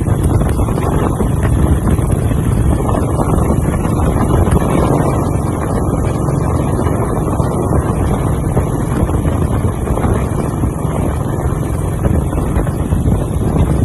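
A BSA WM20's single-cylinder side-valve engine running steadily, with wind buffeting the microphone.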